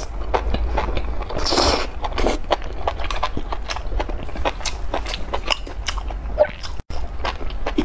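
Close-miked chewing of a mouthful of sauced enoki mushroom strands: a quick, uneven run of wet clicks and smacks, with a short burst of hiss about a second and a half in.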